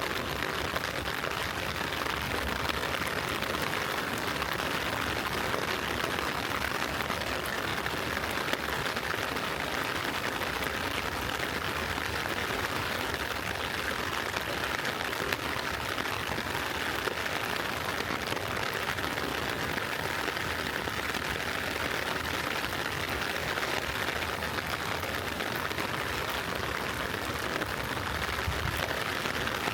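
Gentle rain falling steadily, an even hiss with no breaks.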